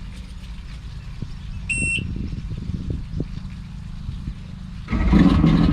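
A short high beep about two seconds in, then a 90 HP Johnson outboard fires up on the first crank near the end and runs, much louder, on flushing muffs.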